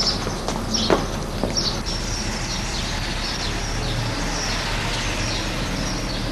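Small birds chirping: short, high, falling chirps repeated throughout over a steady background hiss, with a few sharp knocks in the first two seconds.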